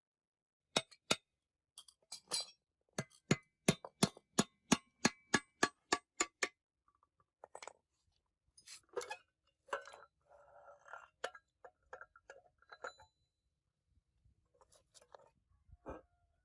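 Sharp metallic clinks and taps of tools and metal parts being handled: a run of about fifteen quick taps, coming faster, then scattered clinks and a brief scraping rustle.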